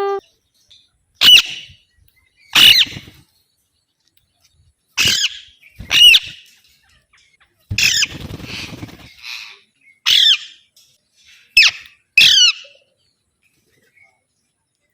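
Alexandrine parakeet giving loud, shrill squawks: about eight short calls spaced a second or two apart, with a rustling noise under one call about halfway through.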